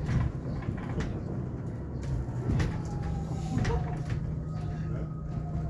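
Hyundai Elec City electric bus heard from inside the cabin: the drive motor's thin whine over a steady low hum, the whine's pitch falling through the second half as the bus slows. Several sharp knocks and rattles from the cabin fittings come through, loudest about two and a half and three and a half seconds in.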